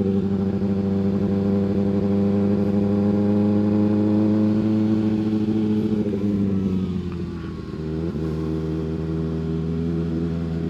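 Kawasaki ZX-6R 636's inline-four engine running at steady revs on the road; about six seconds in the revs fall away as the throttle closes, settling into a lower steady note.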